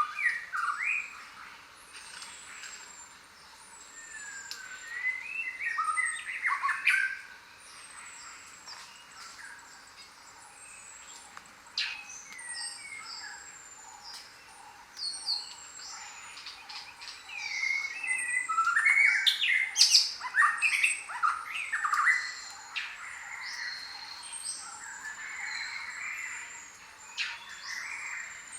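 Several birds calling and chirping at once, with repeated short high falling whistles and louder bursts of squawking calls about a quarter of the way in and again past the middle.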